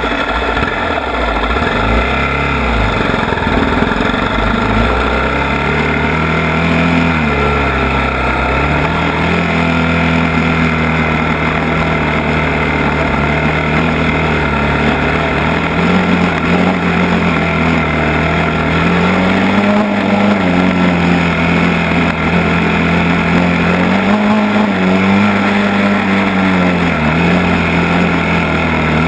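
ATV engine running under throttle, its pitch rising and falling gently every few seconds as the rider eases on and off the gas, over a steady rush of noise.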